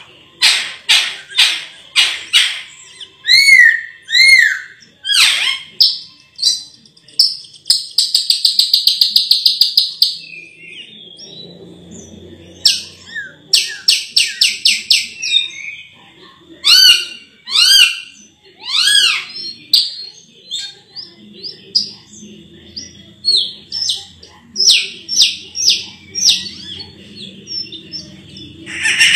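Raja perling, a Sulawesi starling, singing loudly: a varied run of sharp chirps and arched whistled notes, with a fast, even rattling trill about eight seconds in.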